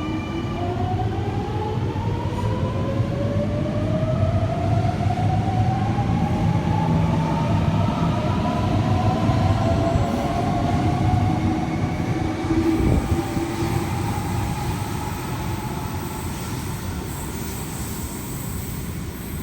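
Sydney Trains Millennium (M-set) electric train pulling out of an underground platform. Its traction motors give a whine that climbs steadily in pitch as it accelerates, over the rumble of the wheels, growing louder and then fading as it leaves.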